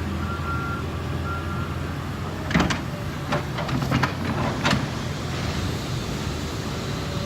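Heavy cleanup machinery running with a steady low engine hum, its backup alarm beeping a few times early on. After about two and a half seconds come a handful of sharp clanks and knocks, the loudest at the start of them.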